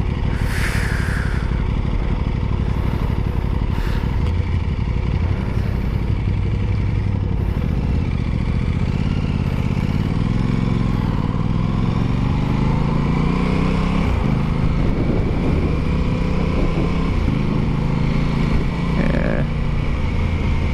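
Aprilia Tuono 660's parallel-twin engine running while the motorcycle is ridden, its pitch rising and falling several times in the middle as the throttle and gears change, over a steady low rush of wind on the microphone.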